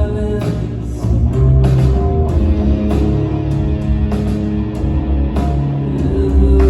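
Live rock band playing through the venue PA at a sound check: electric guitars and bass holding sustained notes over drums keeping a steady beat of about two hits a second.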